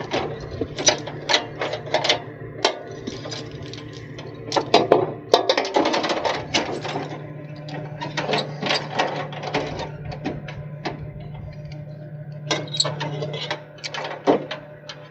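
A wrecker's engine runs steadily under a string of metallic clicks, knocks and rattles, busiest from about four and a half to seven seconds in.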